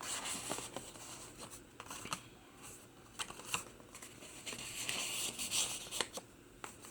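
Paper and cardstock pages of a handmade journal rustling and crinkling as they are handled and turned, with scattered light clicks and taps.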